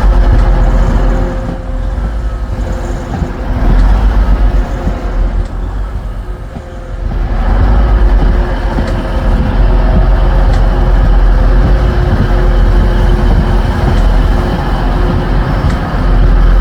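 Diesel train running close by: a loud, low engine rumble with a steady drone, easing off between about two and seven seconds in, then rising again and holding.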